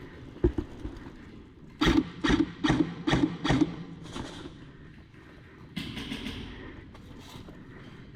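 Hurried footsteps on a hard floor: a single thump, then five heavy, evenly spaced steps at about two a second, followed by a short rustle of gear.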